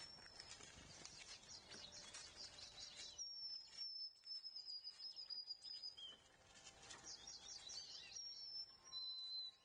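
Small songbirds calling faintly: quick series of high chirps, and a long thin high whistle held for about three seconds, falling slightly in pitch, a few seconds in, with shorter high whistles near the end.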